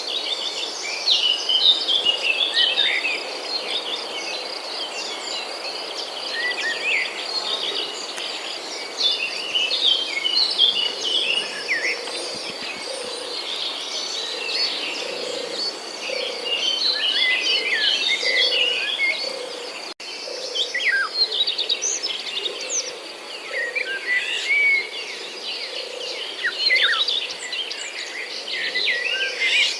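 Many birds chirping and calling over a steady high-pitched insect drone, with a soft low note repeating about once a second through the middle and later part.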